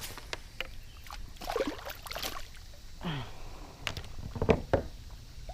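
Scattered knocks against a kayak and splashing water while a hooked giant snakehead is handled beside the boat. The loudest knock comes about four and a half seconds in.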